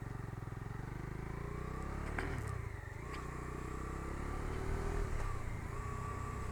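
Bajaj Dominar 250's single-cylinder engine running under way with a passenger aboard; its pitch drops about two seconds in, then climbs as the bike accelerates and holds steady near the end.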